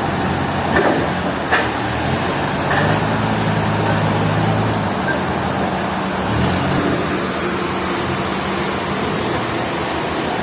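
A large engine running steadily, its pitch shifting twice as the engine speed changes, with two sharp knocks about a second in.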